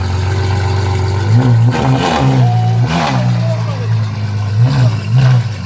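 Performance car engine idling with a steady low note, blipped several times with short throttle revs that rise and drop back, two close together near the end.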